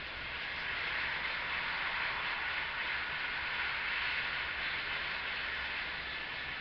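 Regional passenger train moving along the line, heard from inside the carriage: a steady rushing noise with a low rumble underneath, growing slightly louder about a second in.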